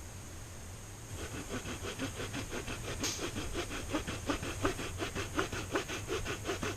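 Frame saw (bucksaw) cutting wood with quick, even back-and-forth strokes, about five a second, starting about a second in.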